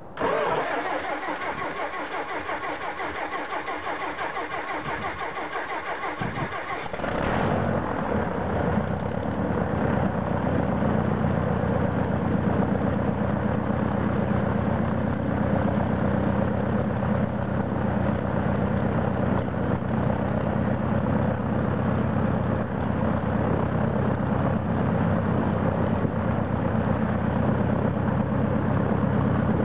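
Saab 91D Safir's six-cylinder Lycoming aircraft engine being started: the starter whines, rising in pitch as it cranks for about seven seconds. Then the engine catches and settles into a steady running idle with the propeller turning.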